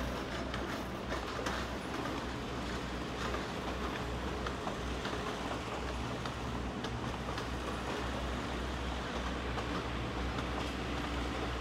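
Blue Ridge Scenic Railway passenger coaches rolling past on the track: a steady low rumble of wheels on rail, with scattered clicks.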